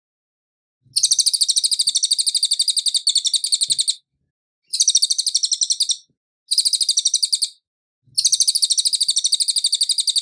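Cililin bird singing in four bursts of rapid, high trilled chatter of about a dozen notes a second, the first starting about a second in.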